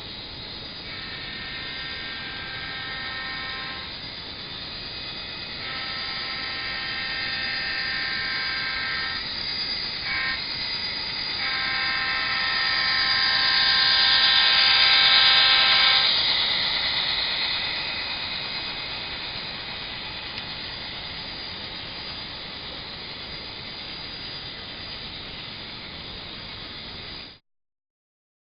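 Sound decoder of an Athearn SD40R model diesel locomotive playing its horn in three long blasts over the engine sound, through the model's small speaker. The engine sound swells, loudest around the last blast, then fades and cuts off abruptly near the end.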